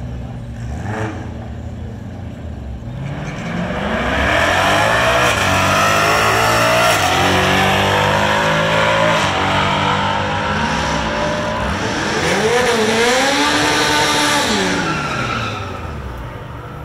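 Ford Mustang's engine at full throttle on a quarter-mile run. Its pitch climbs and drops back several times as it shifts up through the gears. It is loudest through the middle and dies away near the end.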